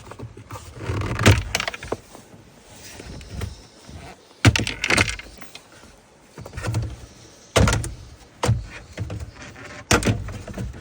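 Plastic dashboard trim of a Dodge Durango being pried loose by hand: several sharp snaps and knocks as its clips let go, with plastic scraping and rattling between them.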